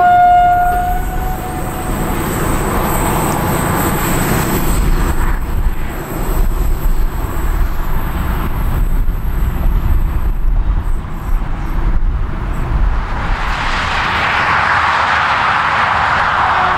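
A diesel-hauled train of old passenger carriages rolls away along the track, its running noise fading, with a short single-note horn blast right at the start. Near the end comes the rising rush of a vehicle passing on a motorway.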